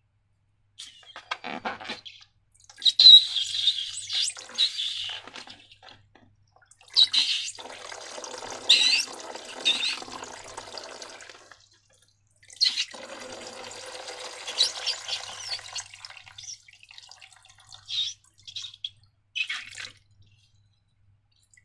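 Wet, sticky slime squelching and crackling as it is squeezed and worked by hand. It comes in three long stretches of a few seconds each, then a few short squelches near the end.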